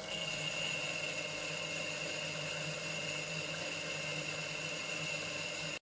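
Homemade lathe running steadily, a constant hum with a steady high-pitched whine, while boring out the faceplate flange's centre hole.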